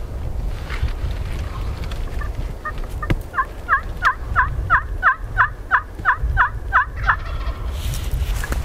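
Turkey calling: a run of about a dozen short yelping notes, roughly three a second, growing louder before stopping.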